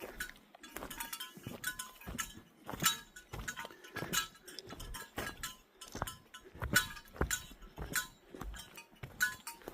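Footsteps of a hiker walking at a steady pace on a forest trail, about two to three steps a second, with a light metallic clinking on many of the steps.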